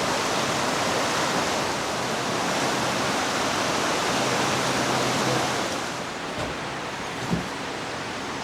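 Rushing water of a river in flood, running high above its normal level. A steady rush that eases a little about six seconds in, with a brief soft knock soon after.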